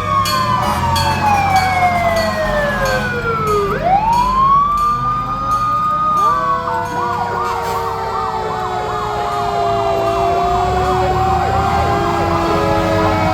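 Several fire truck sirens sounding at once. One slides down in pitch over about four seconds, then rises back quickly and holds. About halfway through, another switches to a fast repeating yelp while other siren tones slowly fall, over a low engine rumble.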